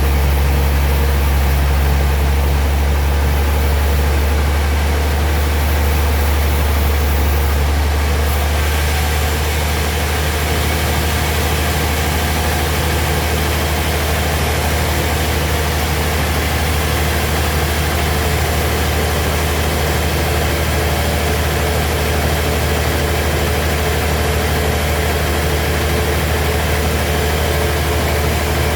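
Heavy sawmill machinery running steadily with a loud, deep hum and constant mechanical noise; a hissier sound joins in about eight seconds in.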